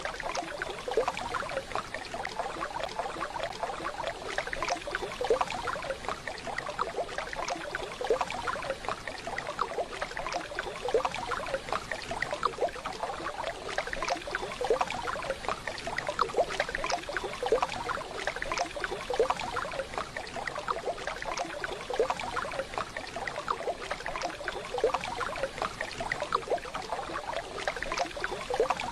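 Waterfall water running and splashing steadily, a dense patter of small splashes with no pause.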